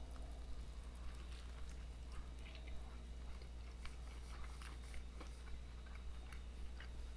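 A person chewing a big mouthful of a bacon, egg and cheese burger on an English muffin: small irregular mouth clicks, over a steady low hum.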